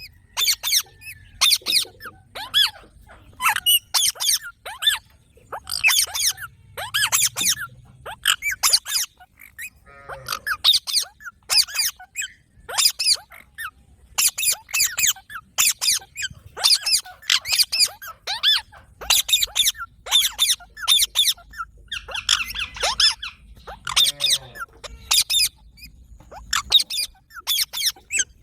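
Green parrots calling: a long, irregular run of short, shrill squawks and squeaks, often in quick clusters.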